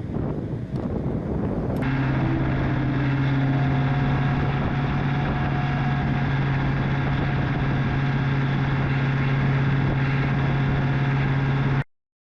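Wind and engine noise with knocks, then, after a cut about two seconds in, a heavy engine running steadily at one even pitch. It stops abruptly just before the end.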